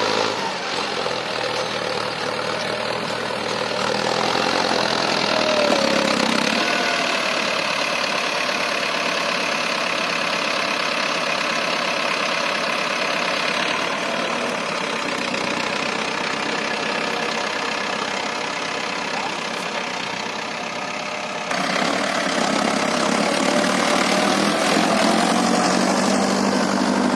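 Mahindra tractor's diesel engine running steadily under way, its pitch rising and falling a little. The sound shifts abruptly about three-quarters of the way through.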